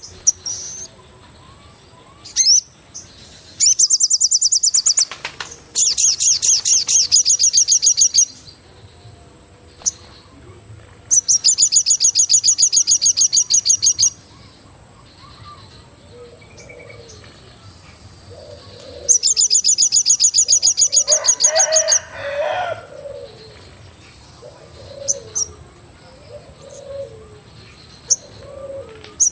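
Forest birdsong: a loud, rapid high trill of quick repeated notes, each lasting two to three seconds, repeats four times, with short low cooing notes calling over and over in the second half.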